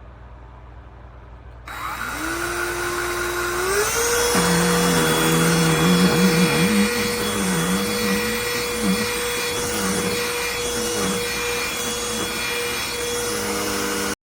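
Cordless handheld vacuum switched on about two seconds in. Its motor spins up over a couple of seconds to a steady whine over a rush of air, and keeps running.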